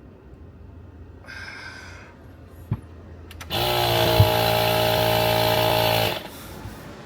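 Air compressor running briefly: a loud buzzing hiss with a steady hum that starts about three and a half seconds in and cuts off after about two and a half seconds.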